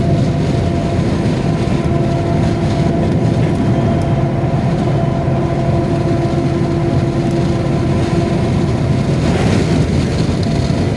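Strong crosswind rushing in through a truck cab's partly opened side window, over the steady drone of the loaded truck's engine and tyres at highway speed.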